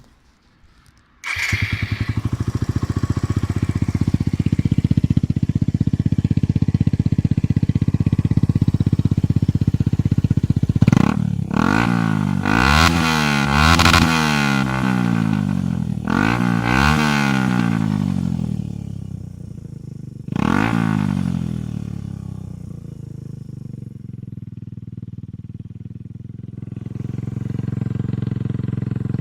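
Suzuki VanVan RV125's single-cylinder four-stroke engine, fitted with a HUZAR aftermarket exhaust, starts about a second in and idles. About ten seconds in it is revved in a string of quick blips, then falls back to a lower, quieter idle, with one more blip.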